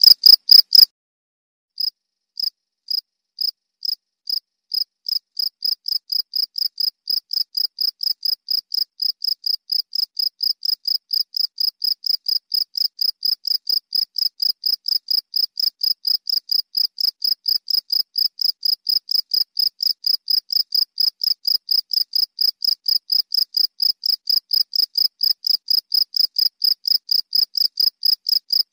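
Cricket chirping: a regular train of short, high, shrill chirps. About a second in the sound breaks off for a moment, then the chirps start again slowly and quicken to a steady rate of about three a second.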